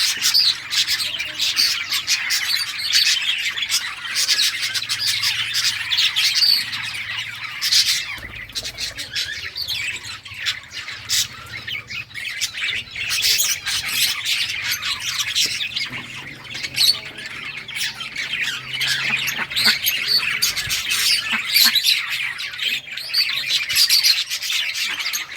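A flock of budgerigars chattering and chirping together, a dense run of short warbling and squawking calls with no let-up.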